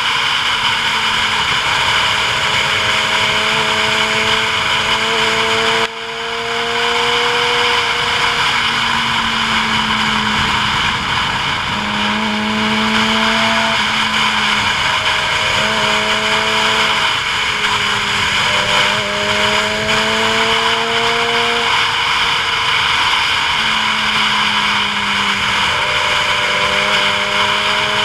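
Vehicle engine running over a steady rush of wind and road noise. Its pitch drifts up and down and drops out briefly every few seconds, with a short dip in level about six seconds in.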